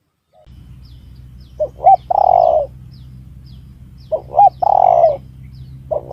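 Spotted dove cooing, a recorded lure call for trapping: each phrase is two short notes followed by a longer falling coo, repeating about every two seconds. It starts about half a second in over a low steady hum, with faint high chirps of small birds behind it.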